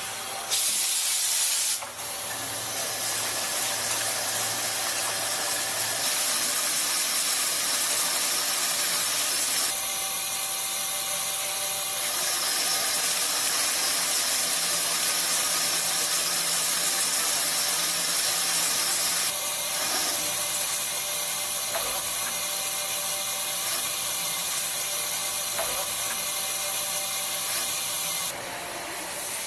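CNC mill-turn machine at work, with coolant spraying in a steady hiss over a faint hum from the running spindle. The sound shifts a few times, at about two, ten, nineteen and twenty-eight seconds in.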